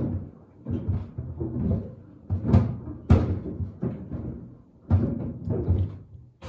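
Sneakers tumbling in the drum of a Samsung WD70T4047CE washer-dryer, thudding irregularly against the drum. Two sharper knocks come about two and a half and three seconds in.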